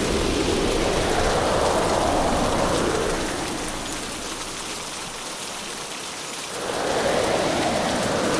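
Heavy storm rain, a dense steady hiss that eases off for a few seconds in the middle and swells back up about two-thirds of the way in.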